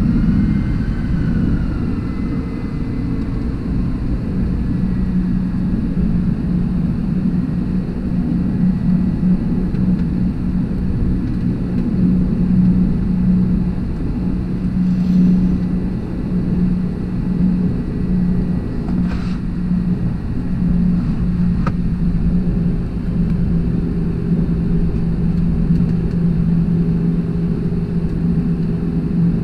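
Airbus A321-200's jet engines and rushing air heard inside the passenger cabin: a steady rumble with a constant low hum.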